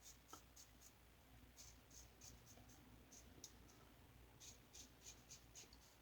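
Faint, short scraping strokes of an Enders Speed Shaver injector-blade safety razor cutting through stubble, about three a second, in runs with two short pauses.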